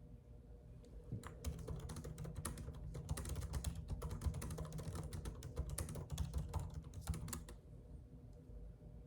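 Typing on a computer keyboard: a fast, uneven run of key clicks that starts about a second in and stops near the end.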